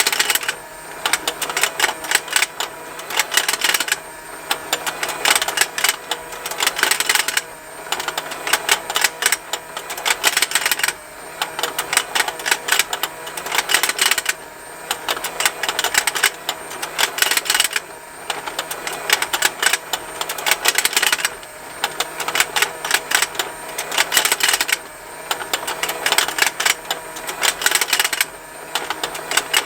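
Plastic fishing-game toy running: its small motor turns the pond with a continuous, rapid plastic ticking while the fish snap their mouths open and shut. Dense clicking comes in stretches broken by short lulls about every three and a half seconds, over a faint steady motor hum.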